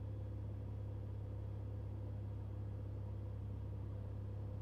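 Steady low drone of a Cessna 182L Skylane's O-470 piston engine (Northpoint XP470 conversion) and propeller heard from inside the cabin, even in level with no change in pitch, the propeller control pushed to full RPM for the approach.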